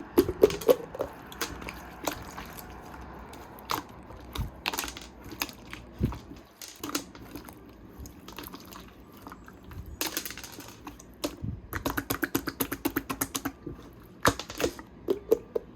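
Small hard objects handled on a desk while crafting: scattered sharp clicks and taps, with a quick run of rapid ticks about three quarters of the way through.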